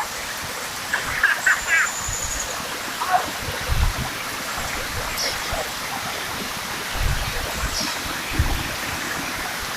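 Steady rush of flowing water, with a few dull low thumps and faint voices about a second in.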